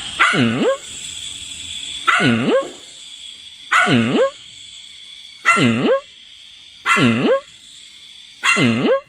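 A dog barking six times at roughly even intervals of about a second and a half. Each bark is about half a second long and dips in pitch, then rises.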